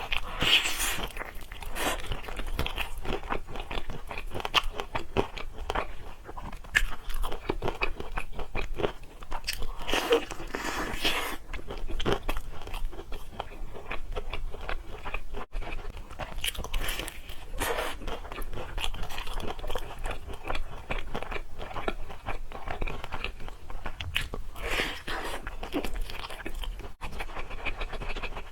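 Close-miked eating: steady chewing with repeated crunchy bites, louder bursts of crunching coming every several seconds.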